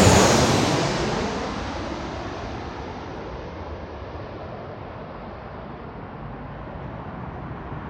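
Jet airliner engine noise fading away as the aircraft moves off after passing, dying down over about three seconds into a steady low rumble.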